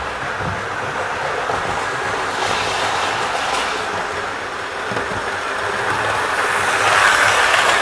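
Model Class 43 train running on model railway track: a steady rush of wheels and motor that gets louder near the end.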